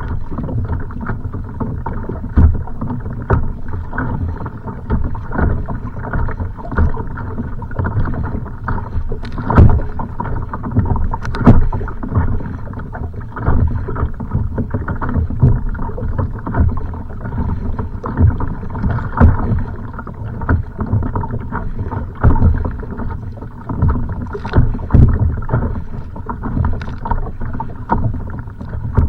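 Choppy waves slapping and splashing against a kayak hull, a continuous wash broken by frequent irregular knocks, two louder ones about ten and eleven seconds in.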